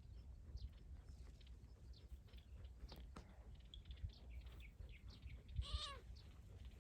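Faint, high little chirps and squeaks from a small animal, with one short, clear cry that rises and falls in pitch about five and a half seconds in, over a low rumble.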